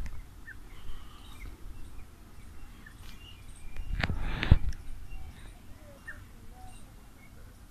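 Small birds chirping in short, scattered calls over a low outdoor rumble. About four seconds in comes a brief scuff ending in a knock, the loudest sound.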